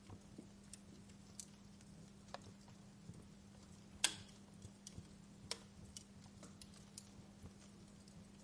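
Wood fire in a fireplace crackling: scattered sharp pops and snaps over a faint steady hum, with one louder snap about four seconds in.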